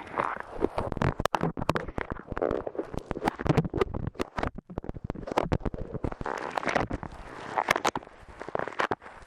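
Light clay pressed and pulled on an ear microphone: dense sticky crackles and clicks over soft, muffled swells.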